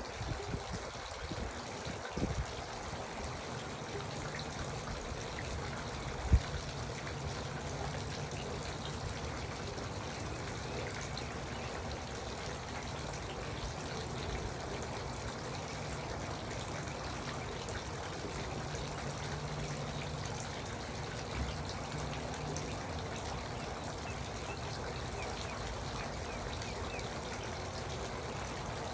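Garden water fountain trickling steadily, with one sharp knock about six seconds in.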